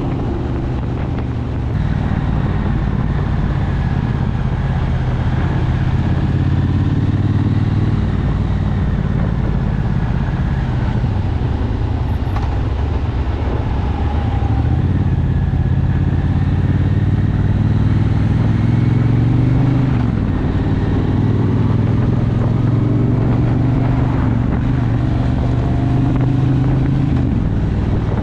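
Motorcycle engine running steadily while being ridden, its pitch drifting up and down with the throttle, with wind rush on the microphone.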